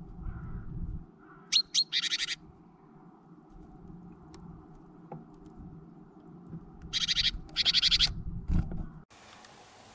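Small songbirds calling at a feeder: a quick burst of loud, high, rapidly repeated calls about a second and a half in, and another longer burst about seven seconds in, over a low rumble. The sound cuts suddenly to a faint steady hiss near the end.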